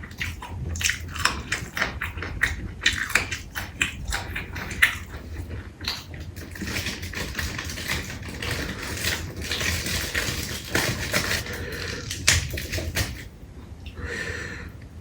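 Close-up eating sounds: a person biting and chewing food, with many sharp crunches and wet clicks, thickening to a denser stretch in the middle and easing off near the end.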